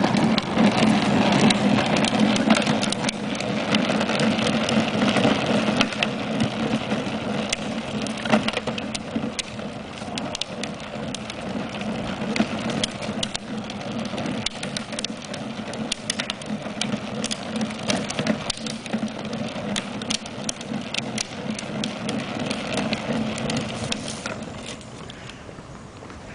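A small motorcycle's motor running steadily with a hum, mixed with a patter of scattered clicks and crunches, fading away about two seconds before the end.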